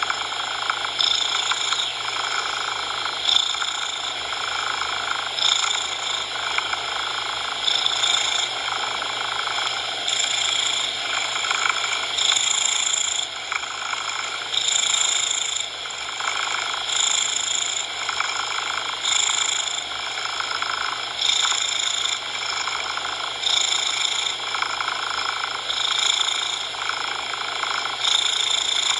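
Cat purring mixed with steady synthetic coloured noise, swelling in a regular rhythm about every two seconds.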